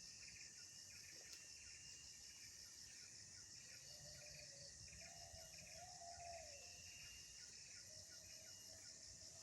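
Crickets and other insects chirping in a faint, steady, evenly pulsing chorus, with a faint wavering tone rising and falling about halfway through and again near the end.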